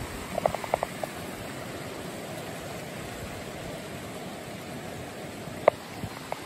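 River water running steadily, with a few short sharp clicks under a second in and one louder click near the end.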